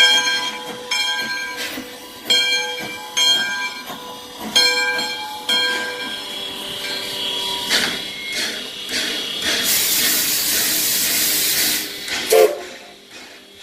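Steam locomotive's whistle sounding in a series of short blasts, followed later by a loud hiss of steam venting for about two seconds.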